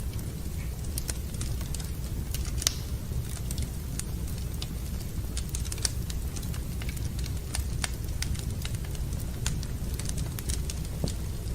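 Wood fire burning in a fireplace, crackling with irregular sharp pops and snaps over a steady low rumble; one pop about a third of the way in is louder than the rest.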